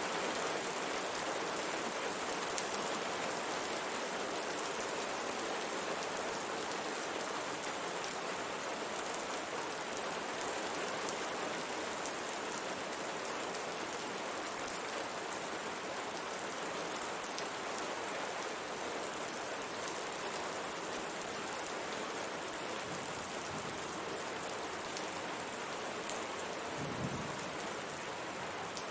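Steady rain pattering on window glass, with scattered ticks of single drops, and a brief low thump near the end.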